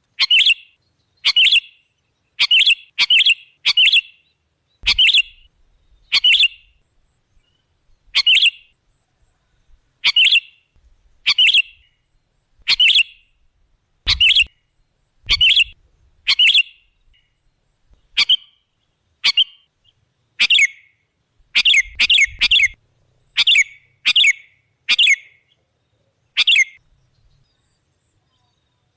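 Sooty-headed bulbul (kutilang) giving short, sharp calls over and over, about one every second or so, a call used as a lure to draw in wild birds.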